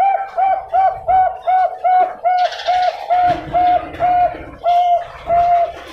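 Bangkok-line zebra dove (perkutut) singing a long run of short coo notes at one pitch, about three a second, spacing out slightly near the end.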